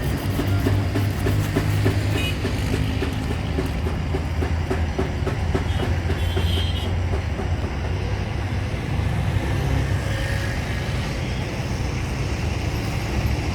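An engine running steadily, with a low hum and a rapid, even clatter that fades after the first few seconds.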